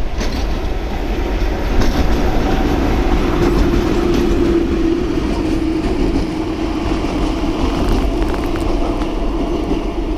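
Train passing close by: a loud, steady rumble with a held hum and scattered clicks from the wheels on the rails.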